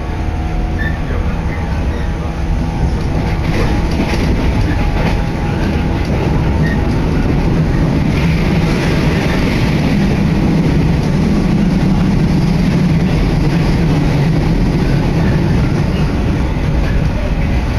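Inside a moving electric train's carriage: steady running noise of wheels on rails and the train's machinery. A deeper rumble grows louder about eight seconds in and eases near the end.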